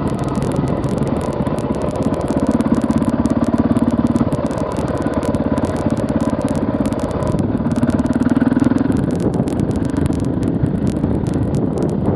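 KTM 450 EXC's single-cylinder four-stroke engine running under way, its pulse swelling louder as the throttle opens twice: about two seconds in and again near eight seconds.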